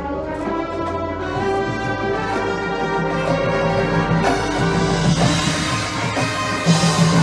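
High school marching band playing its field show: brass holding sustained chords, growing louder and brighter from about five seconds in.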